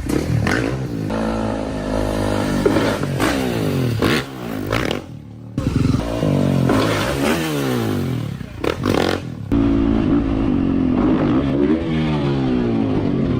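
Motorcycle engine revving up and dropping back repeatedly, its pitch rising and falling with the throttle. The sound breaks off briefly about five seconds in.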